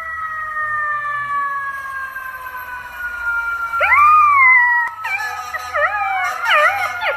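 Dogs howling: a long howl slowly falls in pitch, and a second rising-and-falling howl joins it about four seconds in. From about five seconds in come quick, wavering, yodel-like howls.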